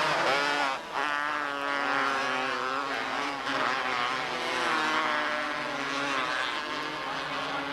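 Engines of several small race cars running together on track, their pitches rising and falling as they accelerate and lift off; a short dip in level about a second in.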